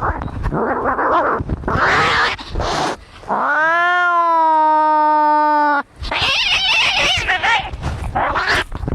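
Domestic cats fighting: harsh hissing and spitting, broken by one long yowl of over two seconds that rises and then holds its pitch, and followed by more hissing.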